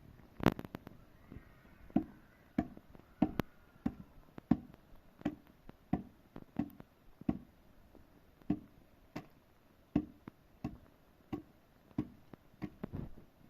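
Repeated blows on wood, about one every two-thirds of a second, some twenty strikes with a short break about two-thirds of the way through.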